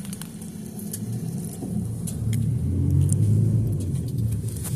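Low rumble of a moving road vehicle, growing louder over the few seconds, with a few faint clicks.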